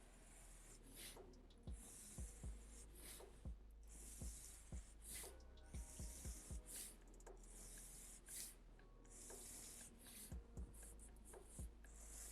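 Faint pencil strokes scratching on drawing paper, a short stroke every second or so, with a few soft knocks in between.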